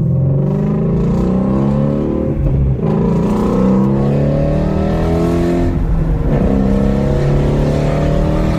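2017 Ford Mustang Shelby GT350's 5.2-litre flat-plane-crank V8 accelerating hard from inside the cabin. The engine note climbs in pitch, drops at an upshift about three seconds in, climbs again, and drops at a second upshift about six seconds in before climbing once more.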